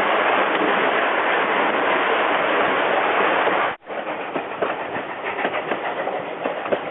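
Narrow-gauge train running along the track: a steady, loud rush of rolling noise. After a sudden cut about four seconds in, it is replaced by a quieter clatter of wheels clicking on the rails.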